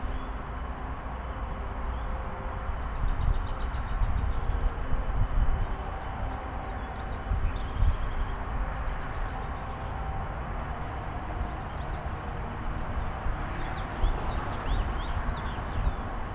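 Steady low vehicle rumble with a noisy haze over it, and faint high chirps a few seconds in and again near the end.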